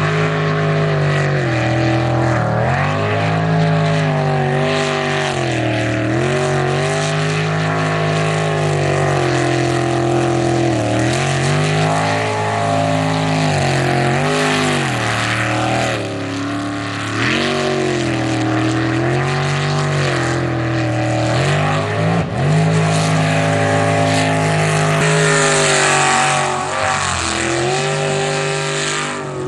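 Racing sprint boat's jet-drive engine running hard, its revs dropping and climbing again over and over as it works through the course.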